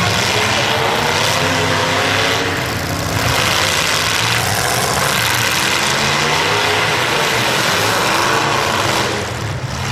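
Several demolition derby cars' engines running and revving together, their pitches rising and falling over a dense, continuous mechanical noise.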